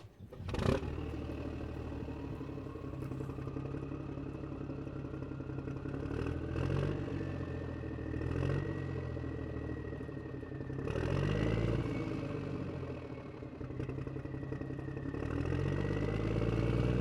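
Remote-control toy tractor: a sharp click about half a second in, then a steady engine sound that revs up several times, over a thin motor whine that rises in pitch.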